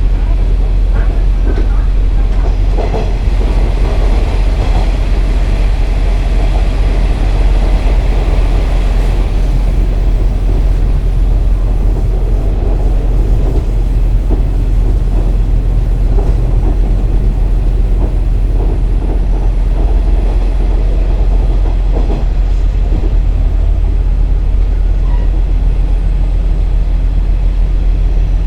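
KiHa 47 diesel railcar running along the line: a steady low diesel engine drone under wheel-on-rail noise, with occasional brief knocks from the wheels and track.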